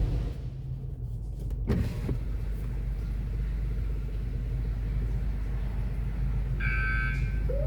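A car idling with a steady low hum. A single knock comes about two seconds in, and a brief high tone sounds near the end.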